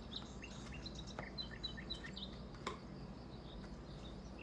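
Faint bird chirps: a run of short, high chirps in the first couple of seconds, then sparser, over a steady low hum, with two soft clicks.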